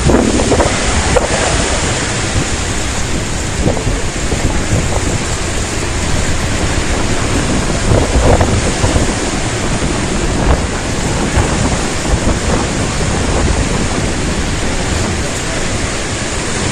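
Severe desert thunderstorm: heavy rain and strong wind making a loud, steady rushing hiss, with wind buffeting the microphone.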